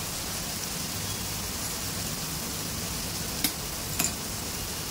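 Onion, tomato and capsicum masala sizzling and bubbling in oil in a pan, being fried down (bhuna) with a little water. Two sharp clicks come about a second apart, a little past the middle.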